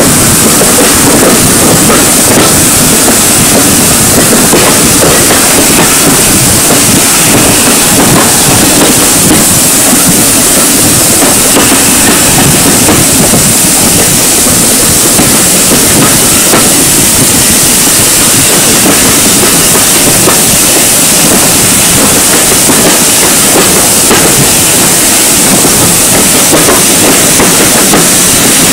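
Steam-hauled train running on the rails: a loud, steady rumble and clatter of carriage wheels that keeps up without a break.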